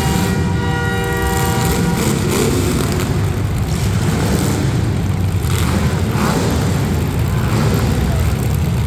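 Demolition derby cars' engines running loud and revving. A horn with a steady, pitched blare sounds over them and stops about two seconds in.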